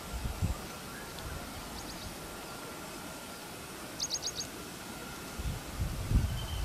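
A bird gives four quick high chirps about four seconds in, with a few fainter chirps before, over a faint steady outdoor background. Dull low thumps come about half a second in and again near the end, the loudest one near the end.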